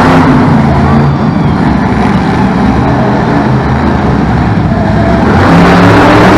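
Monster truck engine running loud and hard, its low drone shifting in pitch about five seconds in.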